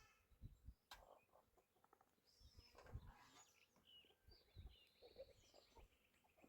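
Near silence, with faint bird chirps and a few soft knocks.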